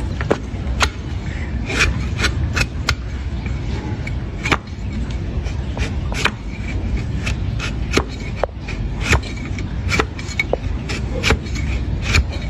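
Donkey's hoof horn being pared and scraped with a hoof-trimming blade: a rasping, scraping sound broken by irregular sharp clicks, several a second, as the tool cuts and catches.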